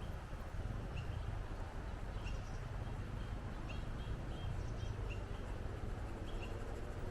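Wind rumbling on the microphone, with a small bird's short, high chirps repeating about once or twice a second.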